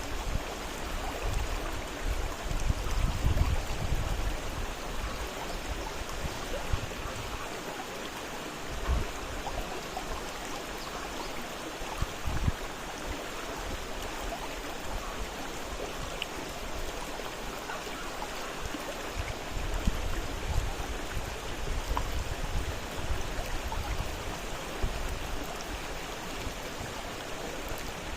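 Fast-flowing river rushing over its bed, a steady water noise, with a few louder low surges coming and going.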